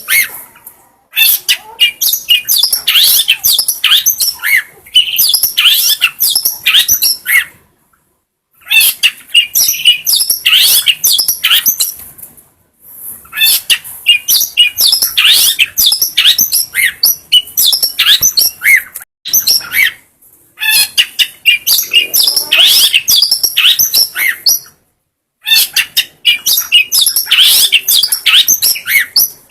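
Long-tailed shrike (cendet) singing a rapid, varied chattering song of high notes and quick sweeps, in bursts of several seconds broken by brief pauses.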